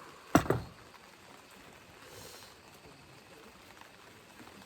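A sharp knock, struck twice in quick succession about a third of a second in, over a faint steady background.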